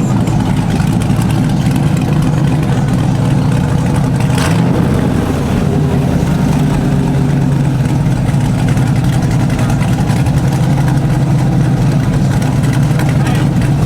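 Vehicle engine running steadily, a loud, even low drone.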